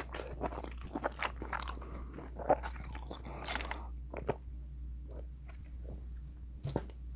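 Close-miked eating sounds of a seafood boil: chewing and crunchy bites, with scattered small clicks and smacks, busier in the first half and sparser toward the end.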